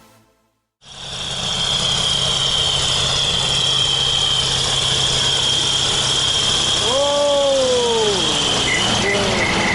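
Tractor diesel engine running steadily with a high, steady whine over a low hum, starting abruptly after a moment of silence. A brief falling tone sounds about seven seconds in.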